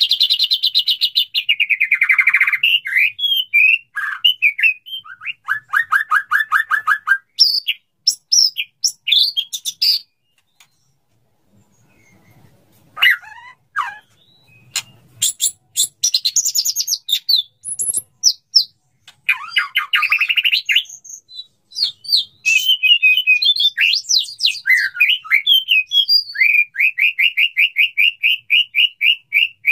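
Male white-rumped shama singing its courtship song to a female: varied loud whistled phrases, fast trills of evenly repeated notes and quick high chips, with a pause of about two seconds around ten seconds in.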